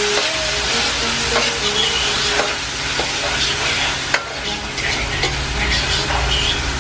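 Diced ham and garlic sizzling in hot oil in a wok while a metal spatula stirs them, scraping and clicking against the pan, with one sharper knock about four seconds in.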